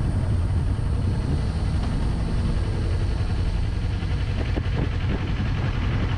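Steady low rumble of a car's engine and tyres on the road, heard from inside the moving vehicle.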